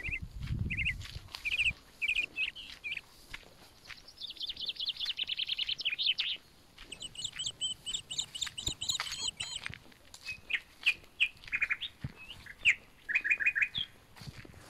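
Songbirds chirping and calling repeatedly in short, high notes, with quick trilled runs of notes from about four to ten seconds in. A brief low rumble sounds in the first second.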